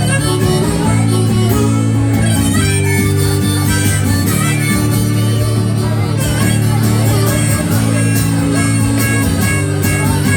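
Instrumental break in a folk song: strummed guitar with a harmonica playing the melody.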